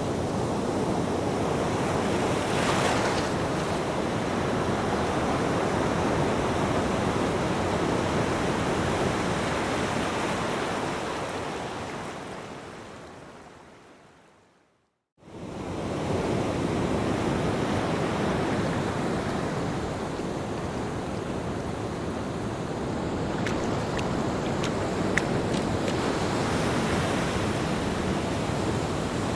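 Ocean waves breaking on a beach, a steady wash of surf. About halfway through it fades away to a moment of silence, then returns abruptly.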